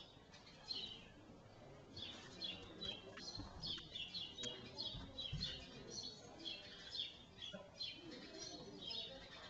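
Small birds chirping over and over in short, high calls, with a few low thuds about halfway through.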